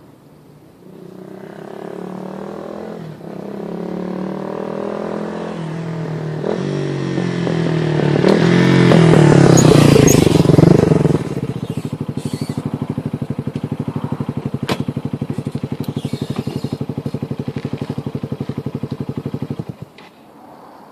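An engine runs with its pitch wavering and climbing as it gets louder. About eleven seconds in it drops to a steady, rapid, even idle beat, then shuts off abruptly about a second before the end.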